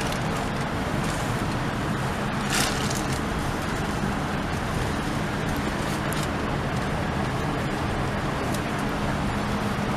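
Steady cabin noise of a Boeing 787-9 at the gate: the air-conditioning hiss with a low, steady hum, and a brief hiss about two and a half seconds in.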